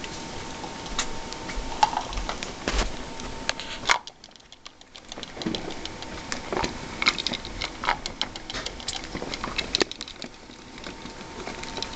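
Pet rats moving about a cage and handling a parrot toy: a busy, irregular scatter of small clicks, taps and rattles, with a short lull about four seconds in.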